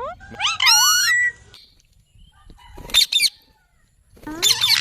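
A ringneck parrot calling in high-pitched calls that glide up and down in pitch. There is a long call in the first second and a half, a short one about three seconds in, and a rapid string of calls near the end.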